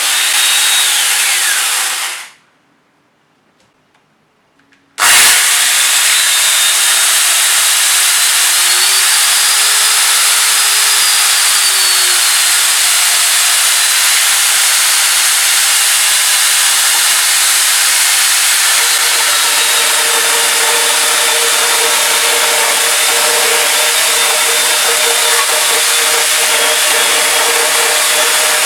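Angle grinder fitted with a chainsaw chain attachment running at speed and cutting wood, with a high whine over the chain noise. It stops about two seconds in, is quiet for under three seconds, then comes back in suddenly and runs steadily.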